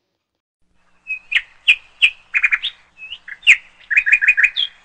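A small bird chirping: a string of short, sharp, high chirps starting about a second in, with quick runs of several notes in a row.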